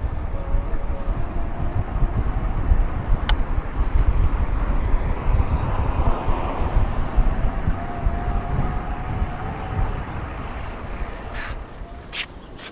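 Wind buffeting the microphone while riding a folding e-bike, a heavy low rumble, with a faint thin whine that rises slightly through the middle. A sharp click about three seconds in and two more near the end.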